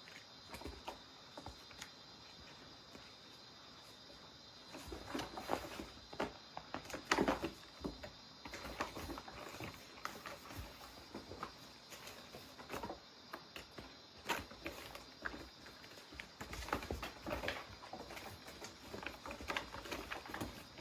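Cats playing: irregular pattering taps, scuffles and soft thumps of paws and bodies, busier from about five seconds in, over a faint steady high hiss.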